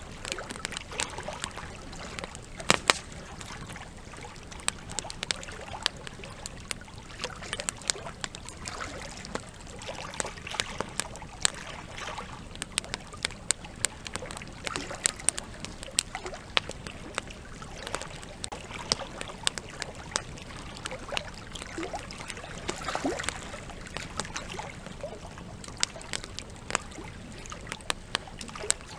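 Wood campfire crackling, with frequent sharp irregular pops and snaps, over the steady rush of flowing river water.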